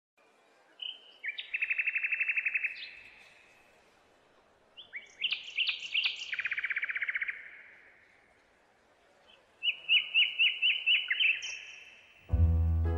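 A songbird singing three short phrases, each built of quick chirps and a fast trill. Music comes in shortly before the end.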